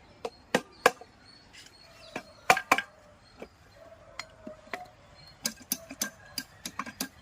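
Hammer knocking on a TVS Ntorq 125 engine's crankcase to split the main case halves apart: irregular sharp knocks, the loudest a pair about two and a half seconds in, then a quicker run of lighter taps near the end.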